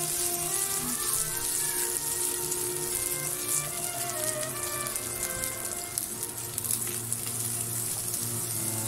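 Ground pork sizzling as it fries in a nonstick pan while being stirred, with background music playing over it.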